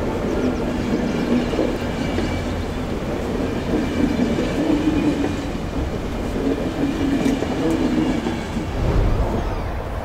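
Passenger train running along the rails: a steady rumble with wheel clatter, the low rumble swelling about nine seconds in.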